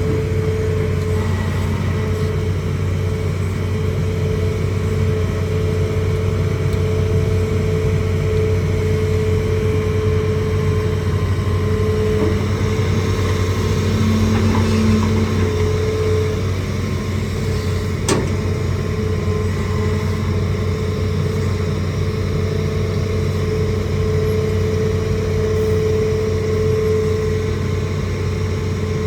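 Hitachi ZAXIS200 excavator's diesel engine running steadily, with a steady whine over the low drone that swells and eases at times. A single sharp knock about two-thirds of the way through.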